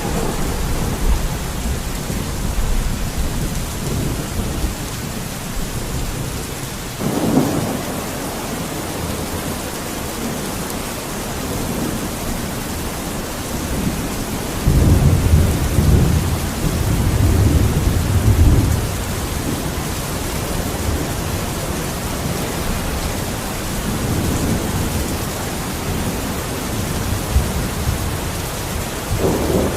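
Steady heavy rain with rolling thunder. Low rumbles swell up several times, the loudest lasting a few seconds about halfway through.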